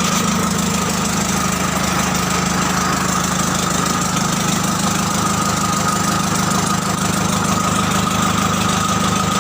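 Komatsu diesel engine running steadily at idle, a constant low hum with a steady high whine over it.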